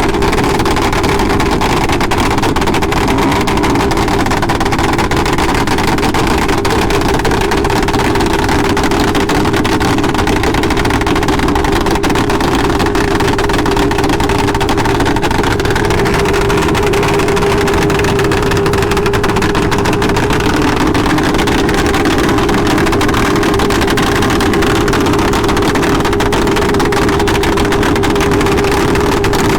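A motorcycle engine running at a steady, unchanging speed, its hum held at one pitch throughout, with a continuous rushing noise beneath it.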